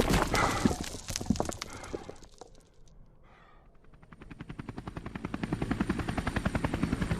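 A dense run of loud crashes and impacts fades away over about two seconds. After a short lull, a helicopter's rapid rotor beat fades in and grows steadily louder.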